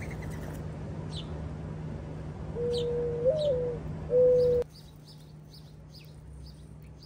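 Mourning dove cooing: a low soft note that lifts briefly in the middle, then a second note that cuts off suddenly. House sparrows give short high chirps throughout, more often in the second half.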